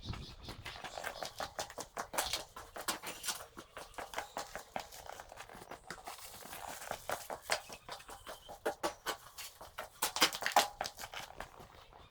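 Irregular rustling and many light clicks and knocks, as of tools and objects being handled and moved about, with a louder cluster near the end.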